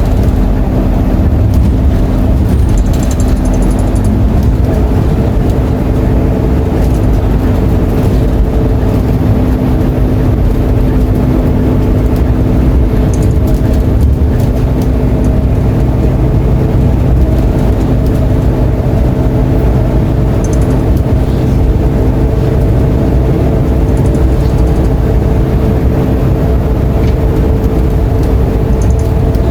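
Scania K230UB single-decker bus heard from on board: the engine and drivetrain run steadily under way, a loud low rumble with a steady drone that holds its pitch.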